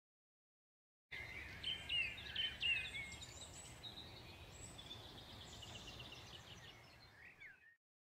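Songbirds singing, with loud chirps and swooping notes in the first few seconds and a quieter trill after, over a low background rumble. It starts about a second in and fades out near the end.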